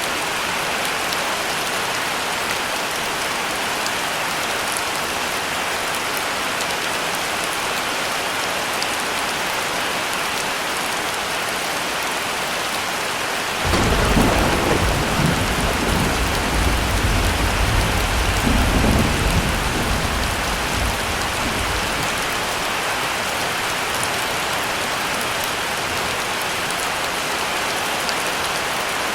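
Heavy, steady rain, with a single roll of thunder that breaks in suddenly about halfway and rumbles deep for several seconds before fading.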